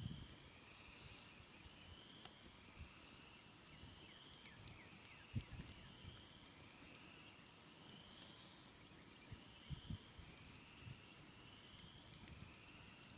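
Faint ambience of a smoldering campfire giving off scattered soft crackles and pops, over a steady chorus of short, high, slightly rising animal calls repeating about once a second.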